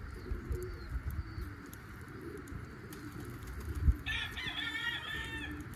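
Domestic pigeons cooing, low and repeated. A single thump comes about two-thirds of the way in, followed by a higher-pitched call lasting about a second and a half.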